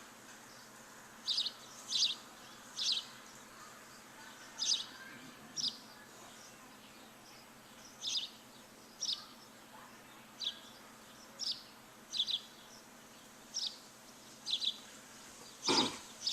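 A bird chirping repeatedly: short, high chirps, roughly one a second at an uneven pace, over a faint steady background hiss. A single sharp click comes shortly before the end.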